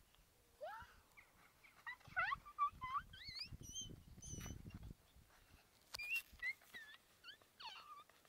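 Small birds chirping and calling in a string of quick, high, rising and falling notes, with a low rumble partway through.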